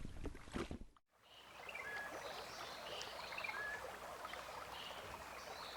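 Faint steady outdoor ambience like running water, with a few faint short bird chirps. The sound drops out briefly about a second in, then resumes.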